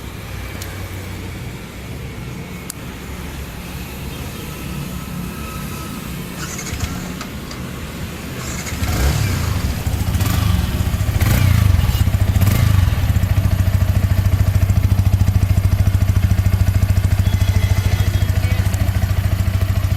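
Yamaha R15 V3's single-cylinder engine running at idle, the exhaust note steady and getting louder about nine seconds in. A few short clicks come before it settles.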